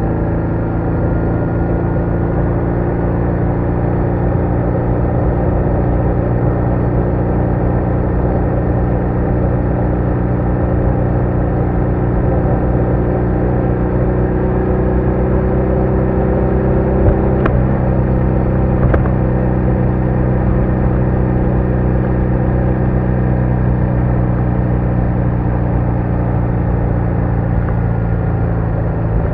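BMW R1200R's boxer-twin engine running steadily under way, its pitch rising slowly as the bike gathers speed. About two-thirds through there is a click and a sudden small drop in engine pitch, and a second click follows soon after.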